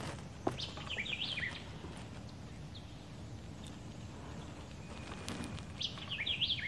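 A songbird singing a short, quick, warbling phrase twice, about five seconds apart, with a sharp click about half a second in.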